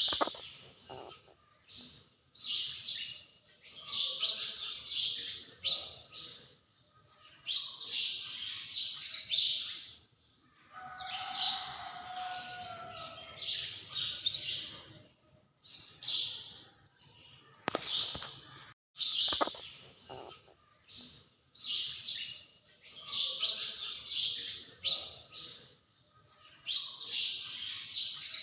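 High-pitched chirping calls in repeated bursts, with a short, lower held call near the middle.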